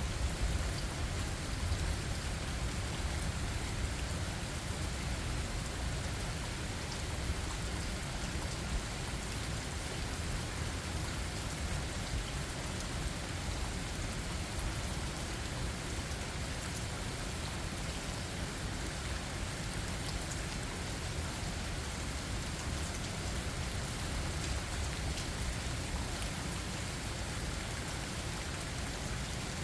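Steady rain falling, an even hiss with small sharp drop hits scattered through it and a constant low rumble underneath.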